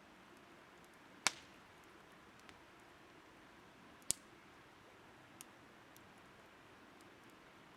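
Burning firewood crackling: two sharp pops, about a second in and about four seconds in, and a few fainter ticks, over a steady soft hiss.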